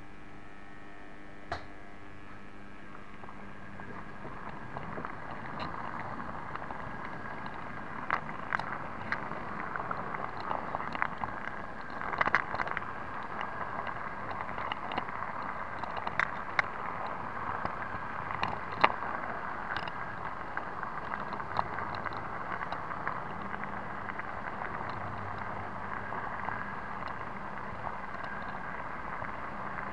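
An 009 narrow-gauge model diesel locomotive running along its track, heard from on board: a steady mechanical running noise with many irregular sharp clicks and ticks. It starts quiet over a faint hum and gets louder about four seconds in.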